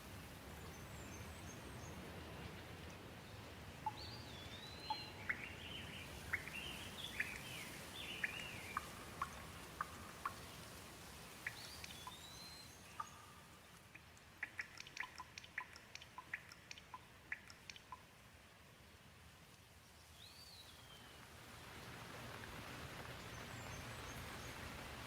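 Light rain falling steadily, with birds calling over it: a string of short chirps and whistled notes, then a quick run of sharp ticks and one more whistled call. The rain softens through the middle and builds again near the end.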